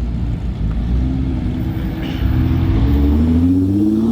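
A car engine running with a low rumble, then accelerating from about two seconds in, its pitch rising steadily to the end.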